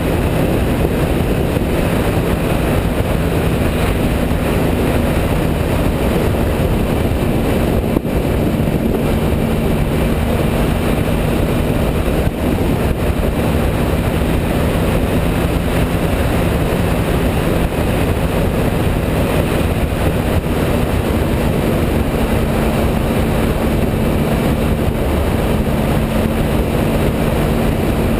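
Triumph Speed Triple's 1050 cc inline three-cylinder engine running at a steady cruise, with wind and road noise rushing past.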